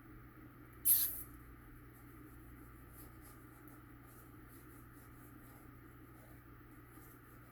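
Quiet room with one brief, sharp rustle about a second in, from paper or cardboard being handled.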